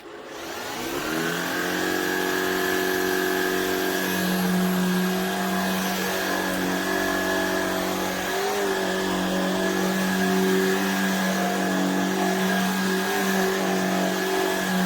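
Shark cordless stick vacuum switched on: its motor spins up with a rising whine over about a second, then runs steadily with a constant high whine.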